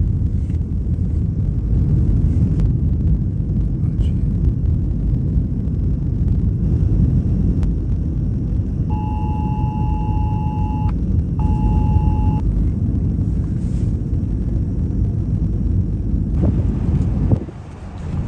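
Strong wind buffeting the microphone, a dense low rumble. A steady high tone sounds twice near the middle, first for about two seconds, then for about one. The rumble drops away briefly near the end.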